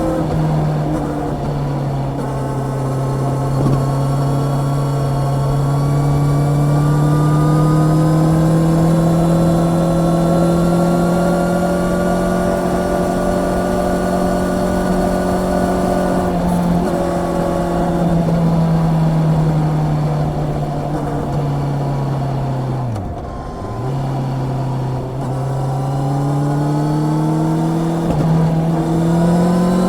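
Honda CB650R's inline-four engine under way on the road, its note climbing slowly as the bike accelerates, with a few sudden steps in pitch at gear changes. About two-thirds of the way through the note falls away as the rider eases off, dips sharply for a moment, then climbs again near the end.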